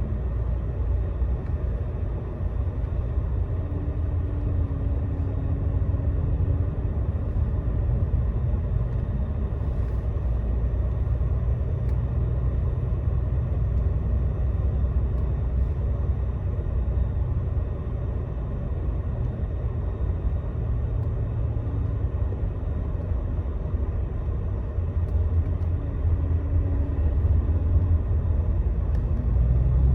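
Steady low rumble of a Scania Astromega double-decker highway bus travelling on an expressway: engine and road noise, growing slightly louder near the end.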